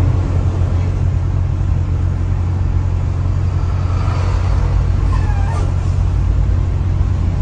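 A car driving, with a steady low rumble from its engine and the road.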